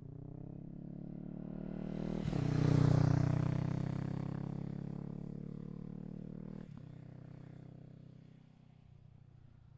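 Honda Rebel 500's parallel-twin engine through a Falcon Double Groove exhaust with the baffle (dB killer) removed, as the bike accelerates past. The note climbs to its loudest about three seconds in, then fades as it moves away. Two brief breaks, about two and about seven seconds in, are gear changes.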